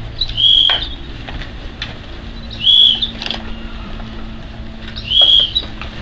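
Painted storks flapping their wings and jostling at a feeding. A short, high whistled bird call repeats three times, about two and a half seconds apart.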